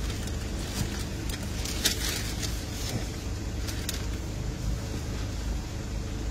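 Car engine idling, heard from inside the cabin as a steady low rumble, with scattered rustles and a sharp click about two seconds in.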